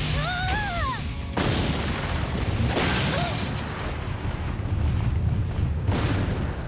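Cartoon action sound effects: a run of heavy booms and crashes, with big hits about a second and a half in, near three seconds and about six seconds in, over background music. A short wavering high cry comes near the start.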